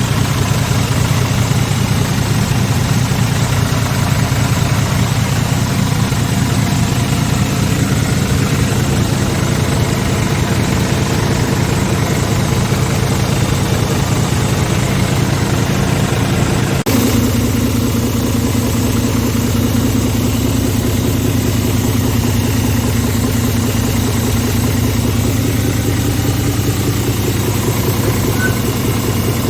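Scania R410 tractor unit's 13-litre inline-six diesel idling steadily. Partway through, the sound abruptly changes in tone.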